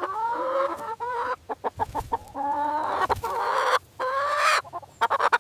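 Chicken calling: three drawn-out calls with short, quick clucks between them.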